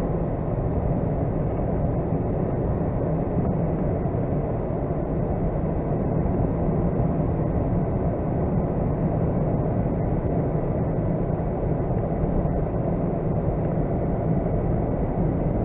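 Steady drone of a vehicle driving on snow-covered roads, heard from inside the cab: engine and tyre rumble with no change in pace.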